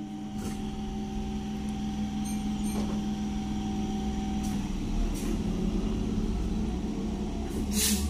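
Electric multiple-unit local train pulling out and rolling past: a steady electrical hum with a low rumble that grows louder about halfway through. A few sharp clicks, the loudest near the end.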